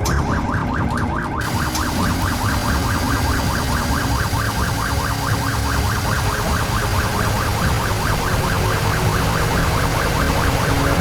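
A rapidly pulsing, warbling alarm-like tone over a steady low rumble, with a hiss joining about a second and a half in.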